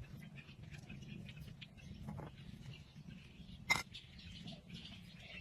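Faint, scattered bird chirps over a steady low background noise, with one sharp click about two-thirds of the way through.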